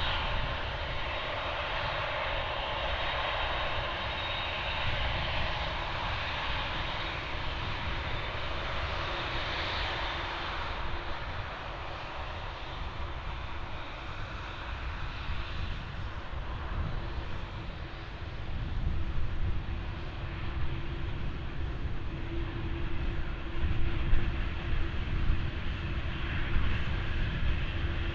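Boeing 747's four jet engines running as the airliner passes, a steady roar with a high whine and a pitch sweep falling about a third of the way in. The low rumble grows heavier in the second half.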